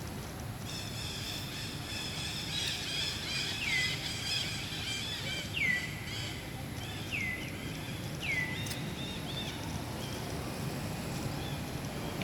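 Bird calls outdoors: a short call that slides down and settles on a held note, repeated every second or two, over a chorus of fast chirping that fades out about three-quarters of the way through, with a steady low background hum.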